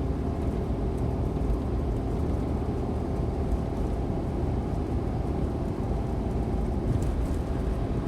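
Steady engine and road noise of a Suzuki Every kei van cruising on an expressway, a continuous low drone with no change in pace.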